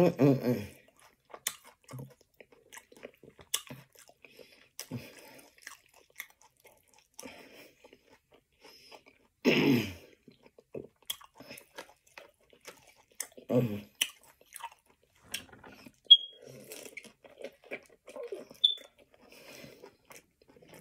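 Close-miked chewing and mouth sounds of a person eating: many short wet clicks, with a few louder bursts near the start and about ten and fourteen seconds in.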